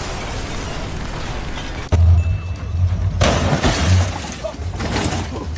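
Crashing, shattering noise over a low machine hum, loudest in a burst about three seconds in, with a shorter burst near the end.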